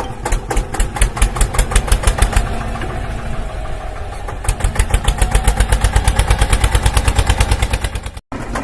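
Tractor engine chugging steadily in rapid, even beats, growing stronger about halfway through, with a brief cut near the end.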